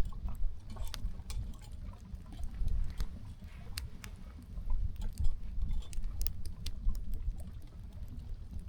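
Wind rumbling on the microphone, rising and falling, with scattered light clicks and rustles of small things being handled.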